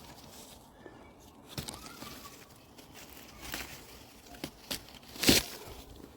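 A handful of short rustling steps and crinkles, about five in all, the loudest near the end.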